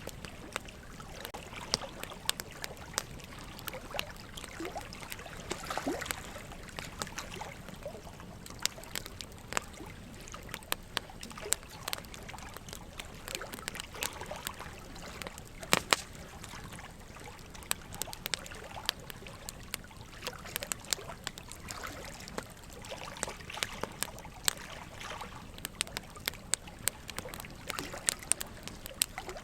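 Wood fire burning with irregular sharp crackles and pops, the loudest about sixteen seconds in, over a steady trickle of running water.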